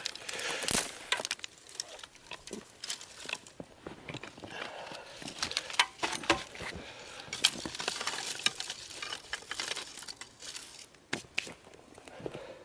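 Sticks and kindling being handled and laid onto a newly lit campfire: irregular snaps, clicks and rustles, with a few sharper cracks.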